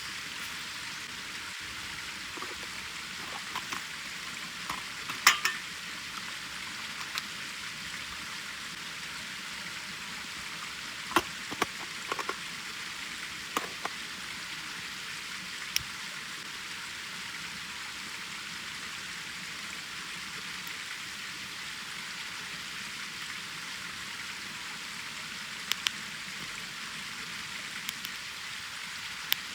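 Wood fire burning in a fire stand: a steady hiss with sharp pops and crackles every few seconds.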